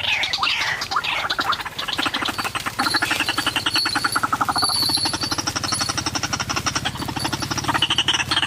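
White-breasted waterhen calling: a fast, rattling croak repeated without a break, with a few squawking notes in the first second.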